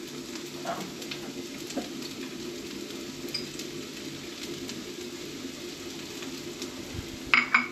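Chopped onion, garlic and chili flakes frying in plenty of hot oil in a pan: a steady sizzle with light scrapes and clicks as they are stirred, and a couple of sharp knocks near the end.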